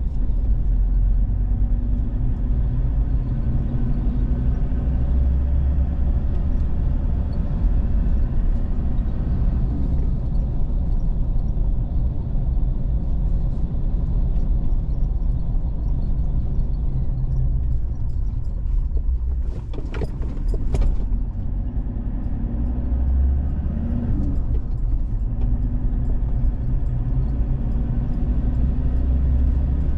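Vehicle driving along a road: steady low engine and road rumble, with a short cluster of sharp clicks or knocks about twenty seconds in.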